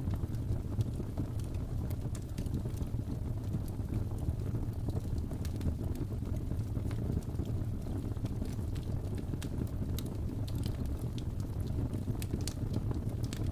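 Fire burning in a fireplace, crackling with frequent irregular small pops and snaps over a steady low rumble.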